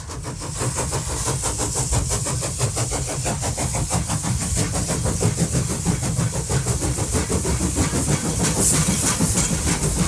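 Toy vehicle running: a steady motor whir with a fast, even rattle.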